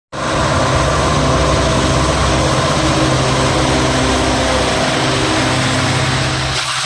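WDG-4 diesel locomotive's EMD 16-cylinder two-stroke engine running hard under load as it passes, a loud steady drone with a broad rushing hiss over it. The low engine drone falls away just before the end.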